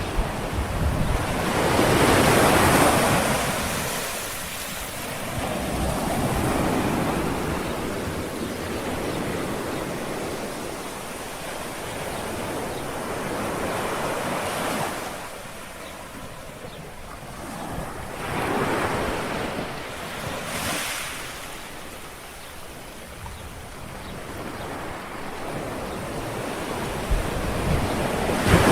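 Gentle sea waves lapping and washing on a shore, each wave swelling and fading over a few seconds, with a low rumble of wind on the microphone.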